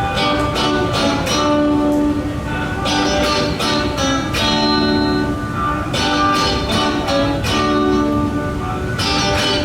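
Instrumental guitar music: chords strummed in a steady rhythm, with no singing.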